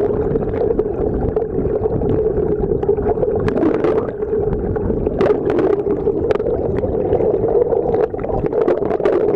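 Sound picked up by a camera held underwater: a dense, muffled, steady rumble and gurgle of water against the housing, with scattered sharp clicks and taps.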